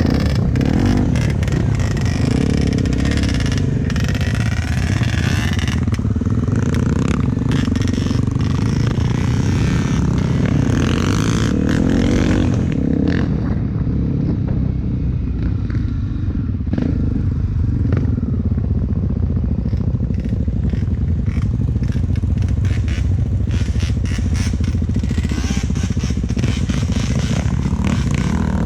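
Honda XR250 Tornado's single-cylinder four-stroke engine running on a dirt trail, its pitch rising and falling with the throttle, with frequent knocks and rattles from the bike over rough ground. The sound turns duller about halfway through.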